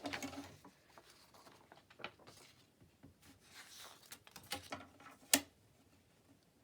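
Sheets of paper being handled on a table: soft rustles and light taps, with one sharp tap about five seconds in.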